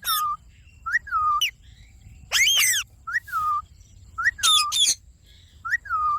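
Indian ringneck parakeet calling: a string of short, bent calls about once a second, with two louder, longer screeches near the middle and towards the end.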